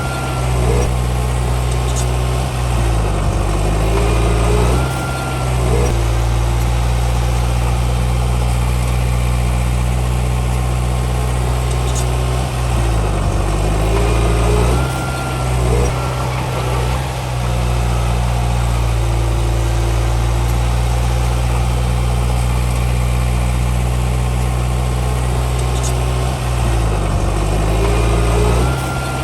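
Heavy diesel engine of a Komatsu D31P crawler bulldozer running steadily under work, its pitch dropping and rising several times as it is throttled down and up, with a few brief faint squeals.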